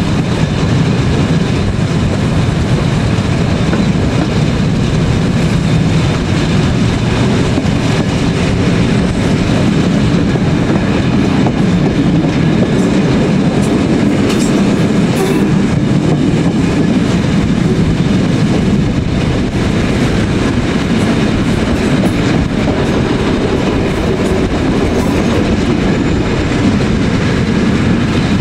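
Vintage passenger train running at a steady speed, its wheels rolling on the rails with a continuous, even noise.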